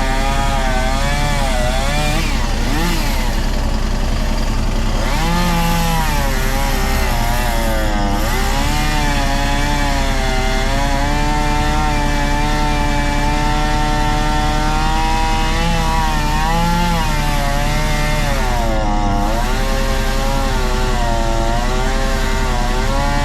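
Battery-powered chainsaw cutting pine, running steadily with its pitch dipping and recovering several times as the chain loads up in the wood.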